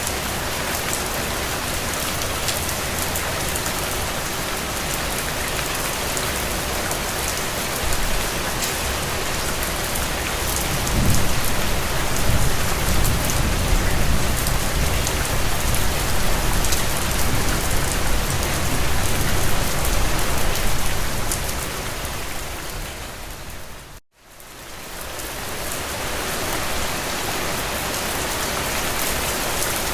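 Steady rain falling on surfaces, with a low rumble of thunder building about 11 s in and lasting roughly ten seconds. About 24 s in the sound fades out to silence for a moment, then fades back in.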